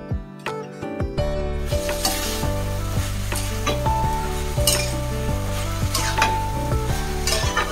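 Boiled banana blossom sizzling as it goes into a hot kadai of oil-fried potatoes, tomato and spices, stirred with a metal spatula scraping on the pan. The sizzling starts about a second and a half in, after a moment of background music.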